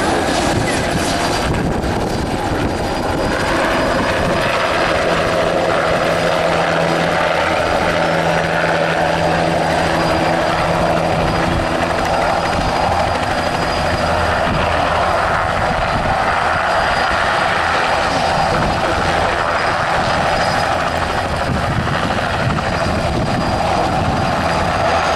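Agusta Bell 206B JetRanger helicopter flying a display, with a steady chopping beat from its two-bladed main rotor and the whine of its turbine engine.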